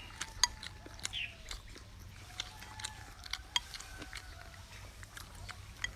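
Person eating: chewing and biting food, with many irregular sharp clicks and crunches.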